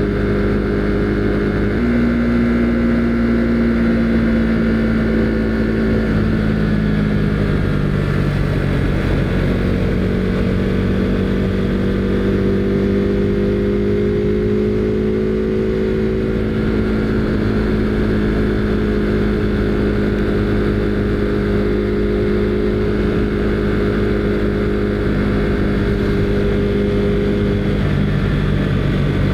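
Husqvarna Svartpilen 401's single-cylinder engine running steadily while riding. Its note shifts in pitch a few times as the throttle and speed change, rising about two seconds in and dropping again near the end.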